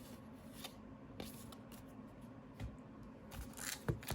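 Trading cards being handled and slid against one another, faint, with scattered small clicks and a brief rustle with two sharper clicks near the end.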